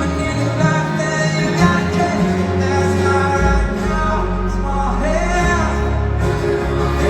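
Live pop band performing a song, with male vocals sung over the band's sustained bass and accompaniment.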